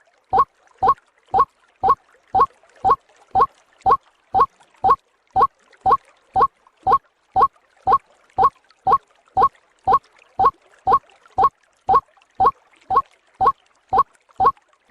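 White-breasted waterhen (ruak-ruak) call played as a bird-lure recording: a short rising call note repeated steadily about twice a second.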